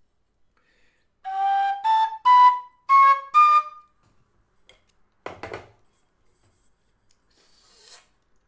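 Low D whistle playing a quick run of five notes climbing step by step into the top of the second octave. A short low puff follows about two seconds later, and a faint breathy hiss comes near the end.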